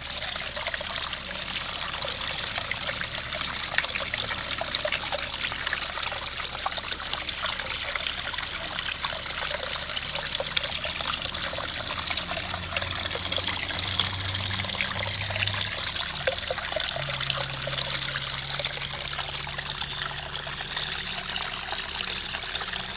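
Small garden pond waterfall trickling and splashing steadily.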